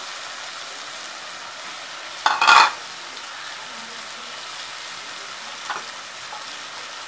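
Marinated prawns frying with onion and tomato in a hot pan, a steady sizzle, with one brief louder burst about two and a half seconds in.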